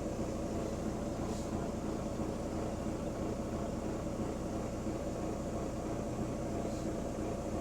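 Interior sound of a Wright-bodied Volvo double-decker bus underway: its diesel engine and drivetrain running with a steady hum. A brief faint hiss comes about a second and a half in and again near the end.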